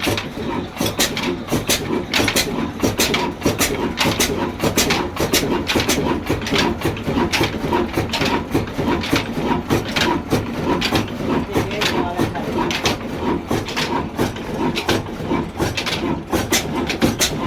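Ruston Hornsby diesel engine running with an even, rhythmic knock, about three beats a second.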